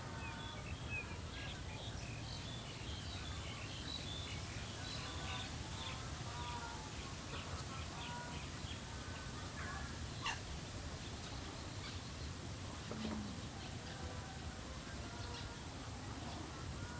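Birds chirping and calling, many short overlapping calls, over a steady low background rumble.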